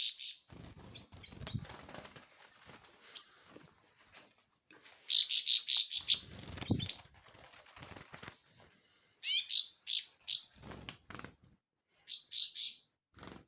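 Small bird chirping in three main bursts of rapid, high-pitched calls, some of them rising sweeps, with fainter sounds in between.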